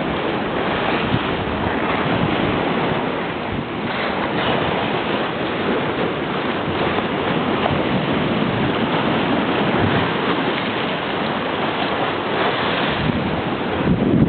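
Sea waves breaking and washing on the shore in a continuous rush, with wind buffeting the microphone.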